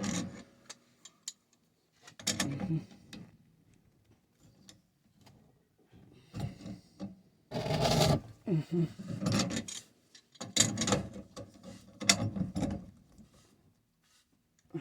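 Wrench turning a threaded pipe fitting tighter, metal grinding and creaking on the threads in about four separate pulls.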